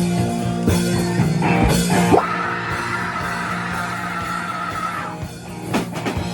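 Live rock band with amplified electric guitar and drum kit: a guitar note slides up about two seconds in and is then held high for a few seconds, with drum hits near the end.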